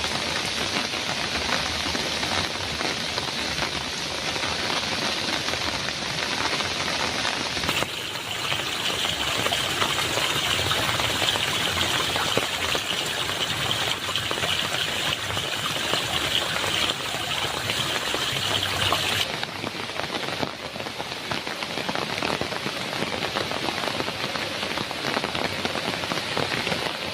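Heavy rain drumming steadily on a metal roof. About eight seconds in the rain turns brighter and hissier, then settles back to the earlier sound some eleven seconds later.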